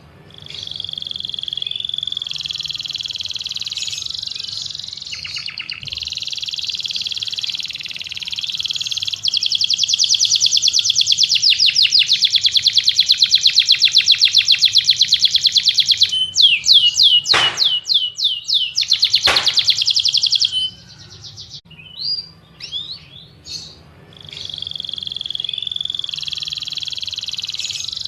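A songbird singing a long, loud, continuous song. It runs into a fast trill, then a few steep downward sweeps. It breaks off about three-quarters through into a few short chirps before the song starts again.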